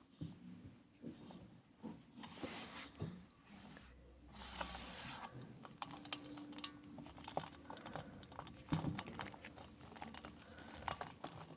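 Ball of black gym chalk being crushed and crumbled: dry crunching made of many small snaps and crackles, with a brief hissing rush about four and a half seconds in.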